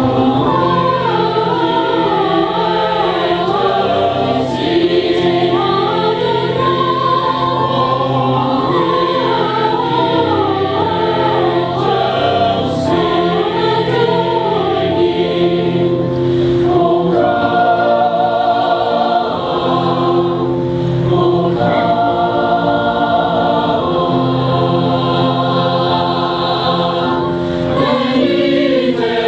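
Choir singing a Christmas song, many voices moving in harmony over steady low held notes.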